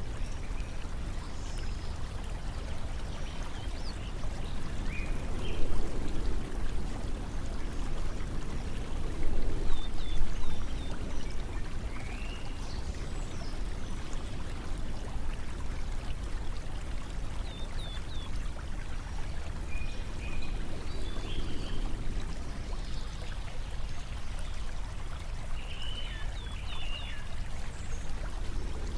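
Steady flowing water, like a stream, with small birds chirping now and then. The water swells louder briefly about 6 and 10 seconds in.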